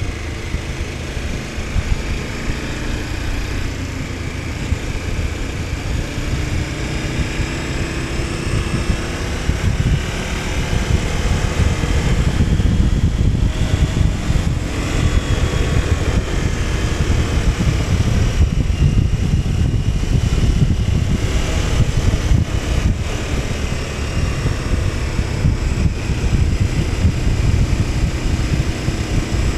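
KTM 1290 Super Adventure S's V-twin engine running under way, its pitch rising and falling with the throttle, over heavy wind rumble on the microphone. It gets louder from about ten seconds in.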